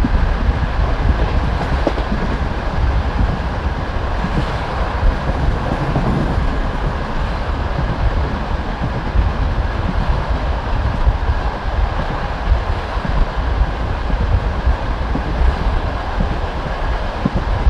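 Passenger train carriage running at speed, heard through the open window: a steady rumble of wheels on the rails, with the wheels knocking over rail joints now and then.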